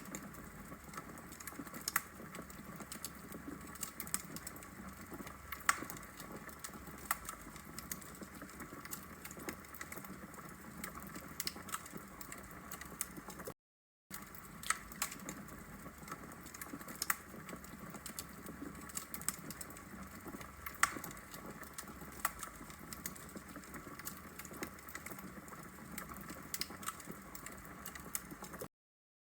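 Wood logs burning in a fireplace, crackling with irregular sharp pops and snaps over a steady low hiss. The sound drops out briefly about halfway through.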